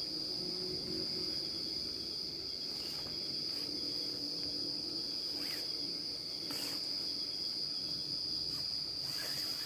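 Forest insects trilling: one steady, unbroken high-pitched drone, with a few faint clicks over it.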